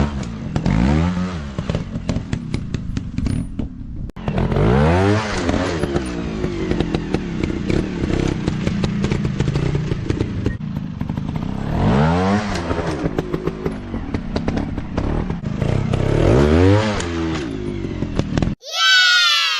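Dirt bike engine revving in repeated bursts, its pitch climbing and dropping several times, with clattering and knocks over it. It cuts off abruptly near the end, and a brief sound gliding down in pitch follows.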